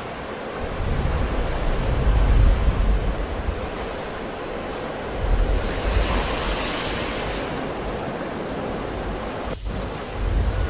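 Sea waves breaking and washing ashore in a continuous surf wash, with wind buffeting the microphone in deep rumbling gusts. A wave breaks with a brighter hiss about six seconds in.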